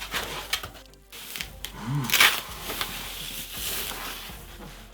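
Packaging of a boxed portable speaker being handled as the speaker is lifted out: crinkling plastic wrap and cardboard rustling, with scattered clicks and small knocks.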